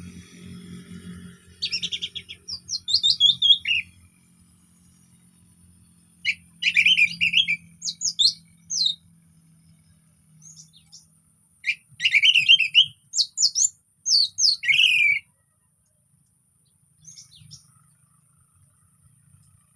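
Orange-headed thrush singing: bursts of rapid, varied, sweeping whistled phrases, three main bouts with short pauses between. A faint steady high-pitched whine runs underneath.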